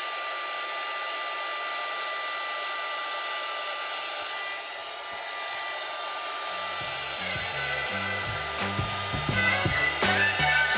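Heat gun blowing steadily with a constant high whine, warming the edges of a freshly fitted iPad screen glass so its adhesive takes hold. Background music with a beat comes in about two-thirds of the way through.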